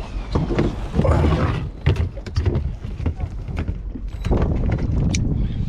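Wind buffeting the microphone aboard a small fishing boat, with a low rumble and scattered knocks and clatters.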